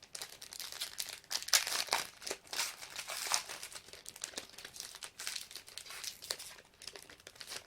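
Wrapper of a trading-card pack crinkling and tearing as it is opened: a dense run of sharp crackles.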